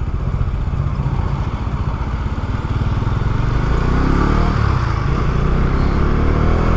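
Bajaj Dominar 250's single-cylinder engine running steadily while riding at highway speed. Around four seconds in, an engine note rises and then falls.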